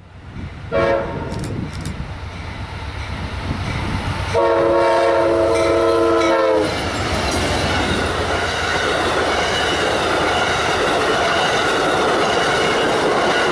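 A passing train's horn sounds a brief blast, then a longer blast of about two seconds with several tones at once, followed by the steady noise of the train rolling past.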